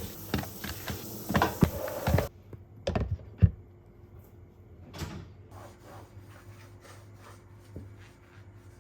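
Water running from a tap, with items clattering under it, shut off suddenly about two seconds in. A few hard knocks follow, then light scattered clicks of things being handled.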